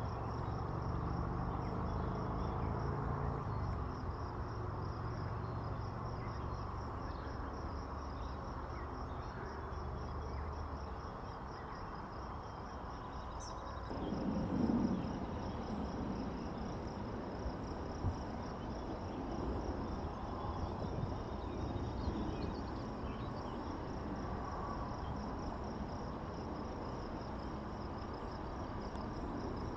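Insects trilling steadily, a high, finely pulsing chorus that runs on without pause, over a low rumble that eases off about ten seconds in.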